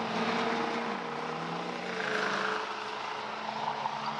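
Car engines running at a drag strip over steady background noise, one engine's pitch falling about a second in.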